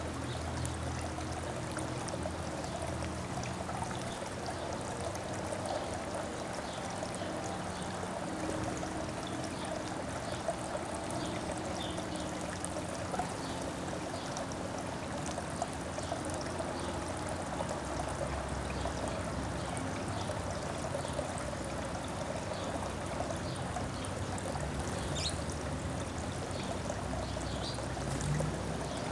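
Steady running, trickling water with faint, short bird chirps now and then.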